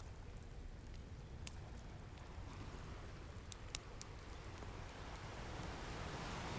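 Fireplace crackling with a few sharp pops over a low, steady rumble of ocean surf; the surf swells louder near the end as a wave builds.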